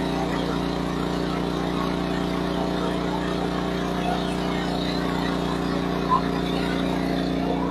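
Steady engine drone, holding one constant pitch over a noisy rush.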